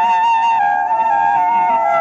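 Bamboo flute playing a slow melody, one unbroken tone gliding in steps between notes.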